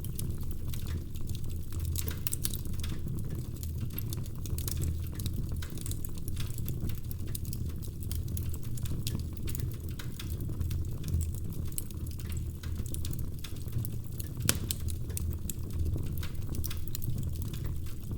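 Wood fire in a fireplace burning, with a steady low rumble and frequent small crackles and pops from the logs, and one louder snap late on.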